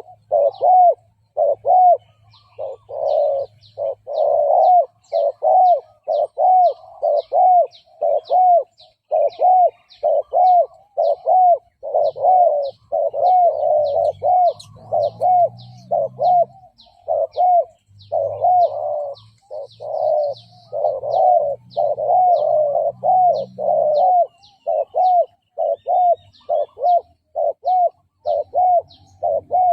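Spotted dove cooing in a fast, unbroken series of short coos, about two a second, the excited bowing coo used as a lure call to draw in wild doves. Faint short high ticks sound above the coos.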